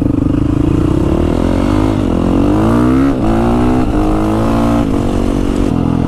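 Motorcycle engine accelerating away, its pitch rising and then dropping at each of about four quick upshifts.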